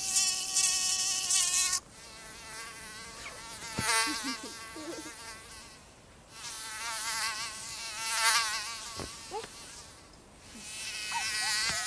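Mosquito whine: a loud, close buzz that cuts off about two seconds in, then fainter passes that swell and fade several times as it flies about, its pitch wavering.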